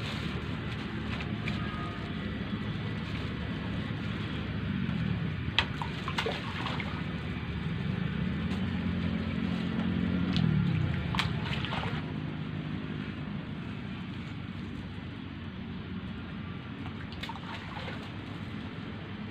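Steady rain with water trickling and dripping, and a few sharp drips or taps. Under it, a motor engine hums up and fades away twice.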